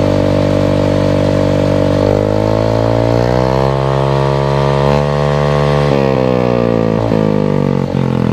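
Single-cylinder scooter engine of a Yamaha Mio i 125 running through an aftermarket Villain exhaust canister. It idles, is revved up about two seconds in and held briefly, then drops back to idle around six seconds.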